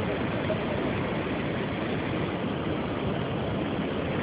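Steady, unbroken roar of floodwater rushing through open dam gates.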